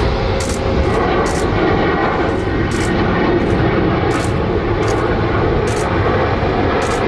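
Jet airliner engines running with a steady, even noise that stays at the same loudness throughout.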